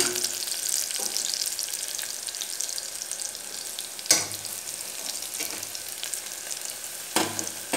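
Shallots and curry leaves sizzling and crackling in hot oil in a pressure cooker pan as they are stirred, with a ladle knocking sharply against the pan twice, about four seconds in and near the end.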